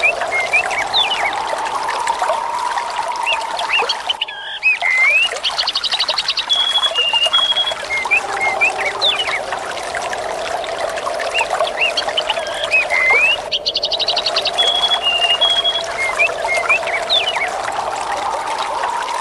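Nature ambience of trickling water with birds chirping and whistling, over a soft tone that slowly swells and sinks. The same stretch repeats about every nine and a half seconds as a loop, with a brief dip in the sound each time it restarts.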